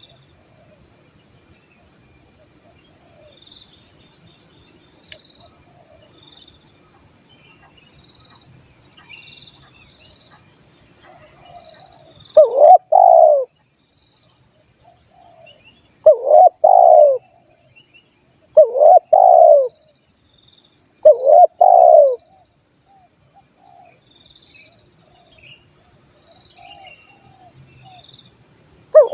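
Spotted dove (tekukur) cooing: four loud, low, rolling coo phrases spaced a few seconds apart, starting about halfway through, with another beginning at the very end. It is a lure call for drawing in wild spotted doves. Under it runs a steady high trill of crickets or other insects.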